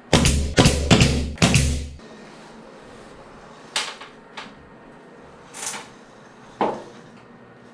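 A quick run of loud knocks and clatter for about two seconds, then four single knocks spread out over the next few seconds.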